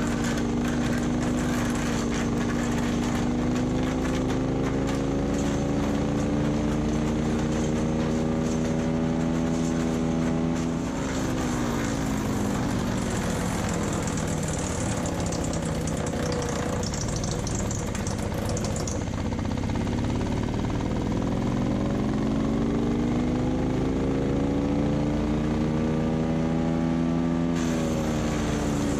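Split-Fire 4090 wood chipper's gas engine running at full speed. About ten seconds in, its pitch drops sharply as it bogs down under load chewing through dry deadwood, with rough chipping noise over it. It then winds slowly back up to speed near the end.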